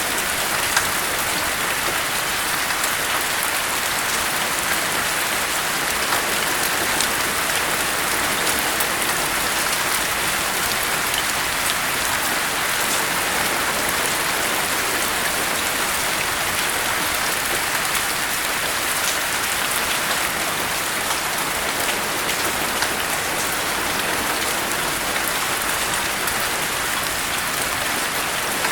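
Steady rain falling on a surface, an even hiss with fine individual drop ticks and no thunder.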